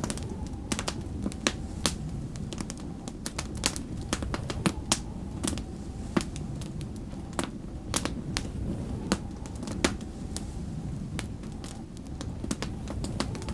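Wood fire crackling in a fireplace: irregular sharp pops and snaps, several a second at times, over a steady low rumble.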